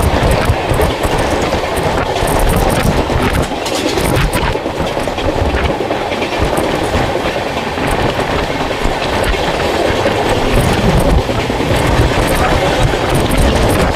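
Train running on the track with a steady loud rumble, and the wheels clacking over the rail joints.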